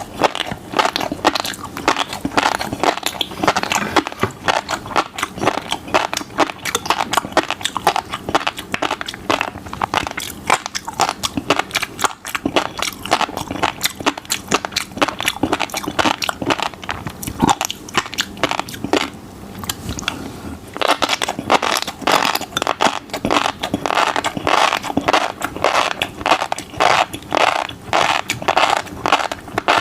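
Close-miked chewing of fish roe: a dense, rapid run of small pops and crackles as the eggs burst between the teeth. It thins out briefly past the middle, then picks up again.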